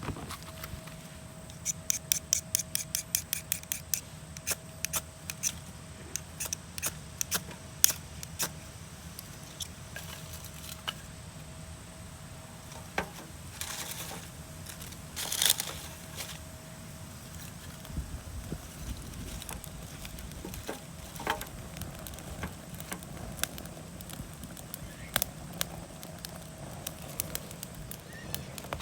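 Scattered sharp clicks, taps and scrapes of things being handled, opening with a quick run of evenly spaced clicks and with a brief rustle about halfway through.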